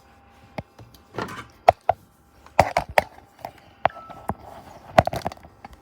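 Irregular knocks and sharp clicks with some rustling, about a dozen in a few seconds: hard objects and packaging being handled.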